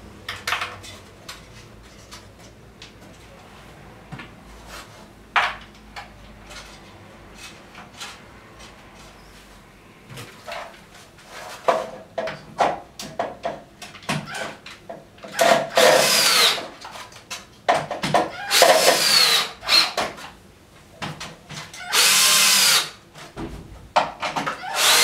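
Cordless drill-driver running in four short bursts in the second half, its whine bending in pitch, driving the screws that fix a wall-mounted inverter into wall plugs. Before it come scattered knocks and clicks of handling the hardware.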